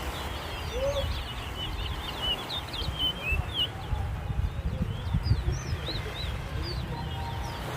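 Caged towa towa finches singing in a song race: a quick, dense run of short whistled chirps and trills, over a low rumble.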